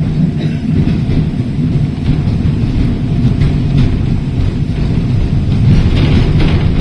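Heritage tram running along the line, heard from on board: a steady low rumble of the wheels on the rails and the running gear.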